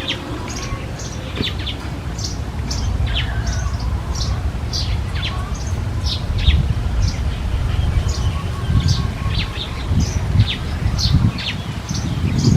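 Birds chirping: a run of many short, high chirps, each sweeping downward in pitch, several a second and overlapping, over a steady low rumble.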